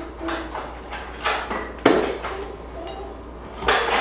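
Dishes and utensils clattering as a salad is mixed in a bowl: several short, irregular scrapes and knocks.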